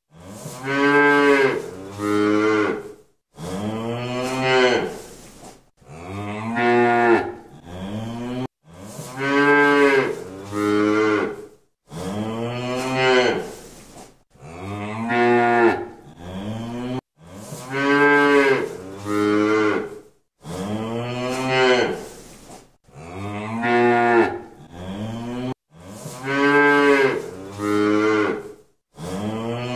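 Domestic cow mooing: a steady series of loud, drawn-out moos with short gaps between them, each call rising then falling in pitch. The same run of calls comes round again about every eight and a half seconds, as a looped recording does.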